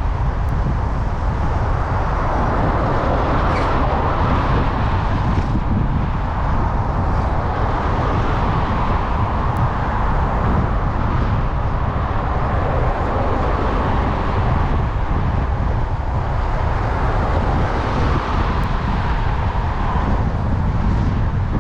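Steady wind rush and road noise on the microphone of a moving bicycle, swelling and easing slightly every few seconds.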